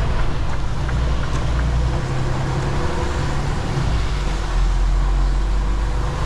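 Semi-truck's diesel engine running with a steady low rumble as the truck moves.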